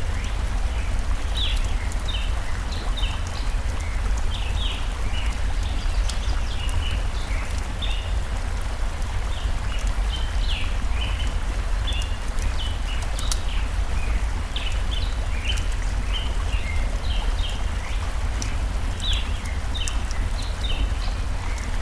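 Stream water rushing steadily with a low rumble, birds chirping in many short high notes throughout, and small scattered crackles of a campfire.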